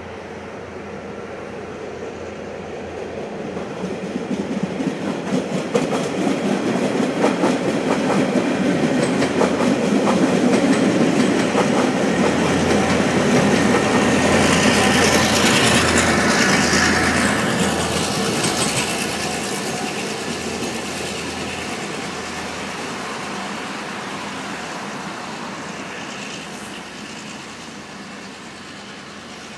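Diesel-hauled suburban push-pull train climbing a grade and passing by, its engine hum and wheel clatter growing louder, peaking near the middle with a brief high-pitched wheel noise, then fading as it moves away.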